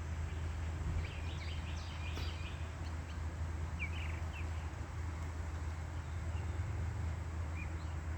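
Birds chirping in short calls, a cluster about a second in and a few more around four seconds, over a steady low outdoor rumble.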